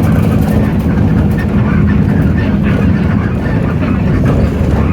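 Hino J08E-VN inline-six diesel engine of a city bus running steadily under way, heard from inside the cabin.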